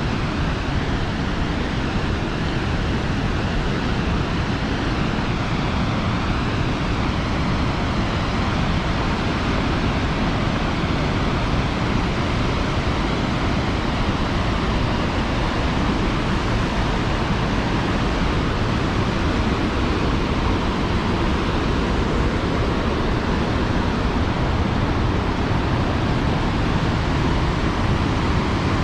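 Tännforsen waterfall's heavy water crashing and rushing in a loud, steady roar.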